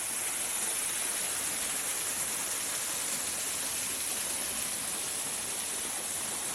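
Waterfall pouring close by: a steady, unbroken rush of falling water with a strong hiss.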